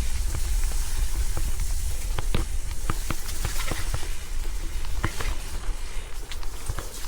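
Gravel bike riding over a gravel track: a steady low rumble of tyre and wind noise on the action camera's microphone, with irregular sharp clicks of grit and small stones.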